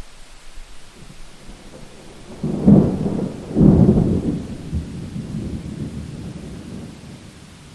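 Thunder over steady rain: a loud rumble breaks in about two and a half seconds in, swells twice within a second, then rolls away over the next few seconds, with the even hiss of rain underneath.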